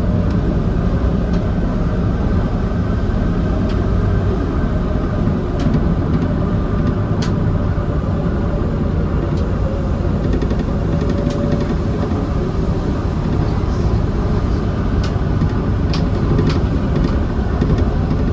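Interior running noise of a Docklands Light Railway B92 stock train under way: a loud, steady rumble of wheels and motors, with scattered sharp clicks.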